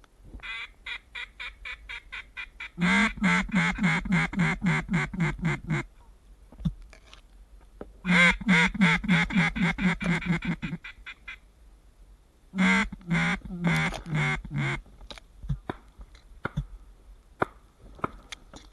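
Mallard-style quacking blown on a duck call: rapid runs of about six quacks a second. Softer quacks come first, then three loud runs with short pauses between them.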